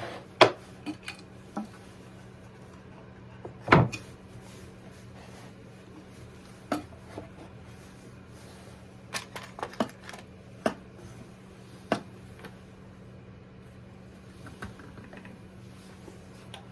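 Irregular sharp clicks and knocks of small hardware and hand tools handled on a workbench while a birdhouse latch and hinges are fitted, the loudest knock about four seconds in and a quick run of clicks a few seconds later. A faint steady low hum lies underneath.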